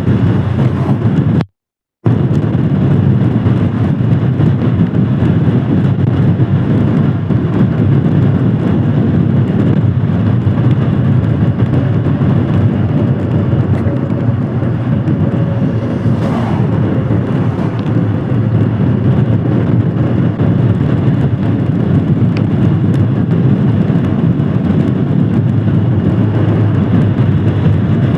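Royal Enfield Himalayan Scram 411's single-cylinder engine running steadily while riding in the rain, with the dense low noise of riding. The sound cuts out completely for about half a second around a second and a half in.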